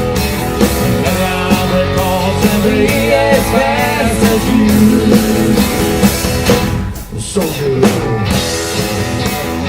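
Rock band playing an instrumental break, with drum kit and guitars and a bending lead line, and a brief drop in the music about seven seconds in.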